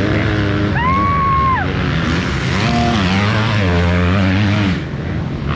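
Motocross bike engines revving up and down as they race, the pitch climbing and dropping with throttle and gear changes. A brief high whine rises, holds and falls away about a second in.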